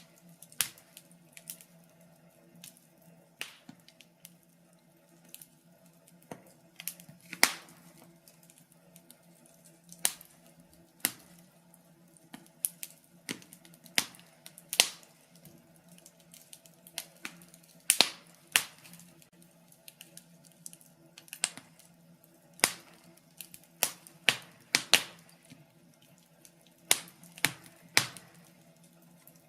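Wood fire in a fireplace crackling: irregular sharp pops and snaps, sometimes several close together, a few much louder than the rest, over a faint steady hum.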